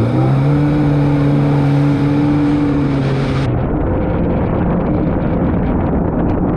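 Jet ski engine revving up and running at a steady pitch. About three seconds in, its tone fades into a rough rush of wind and water.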